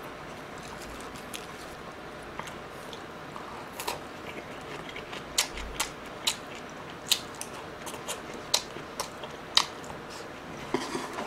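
Close-miked chewing of a mouthful of rice and marinated pork ribs, with sharp wet mouth clicks and smacks. The clicks start about four seconds in and come roughly one or two a second.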